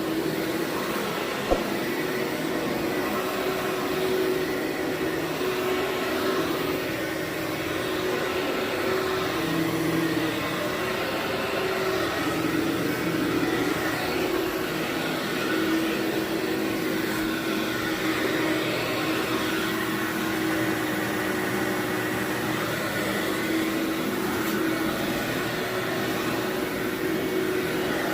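Vacuum cleaner running steadily over carpet, a constant motor hum with a slight waver, with a single sharp click about a second and a half in.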